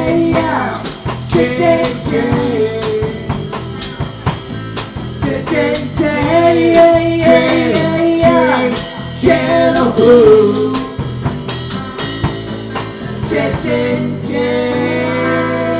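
Live blues band playing an instrumental passage: a lead instrument holds and bends notes over drum kit and bass.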